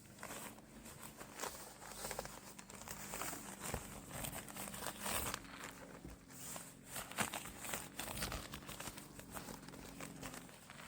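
Crinkly synthetic fabric being crumpled and rustled by hand in irregular bursts, with a few sharper clicks, as camping gear such as the sleeping mat is handled.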